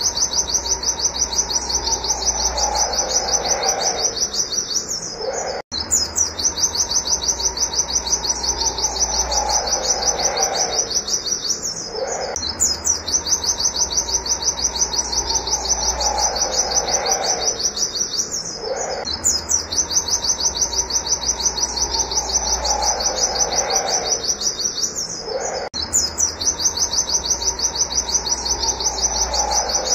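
Pleci (white-eye) singing in 'nembak' style: a fast, high-pitched, monotone stream of 'wit wit' notes, breaking off briefly about every six to seven seconds and starting again.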